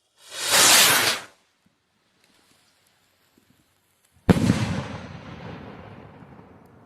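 A firework rocket launching with a rushing hiss lasting about a second, then a single sharp bang about three seconds later that echoes and dies away slowly.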